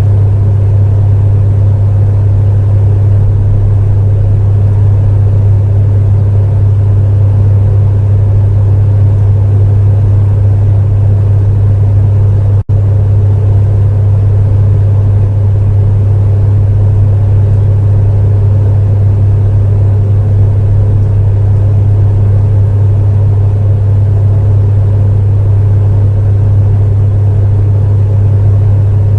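Electric space heater running steadily: a strong low hum from its fan motor under a soft rushing of air. The sound drops out for an instant about thirteen seconds in.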